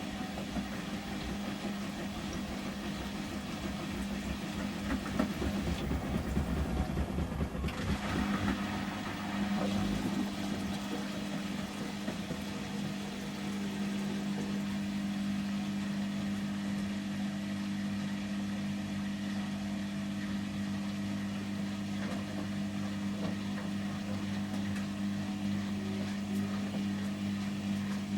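Samsung front-loading washing machine in its final spin at 800 rpm: the drum and motor make a steady hum. For the first several seconds it runs rougher and a little louder, then settles into an even, smooth hum about eight seconds in.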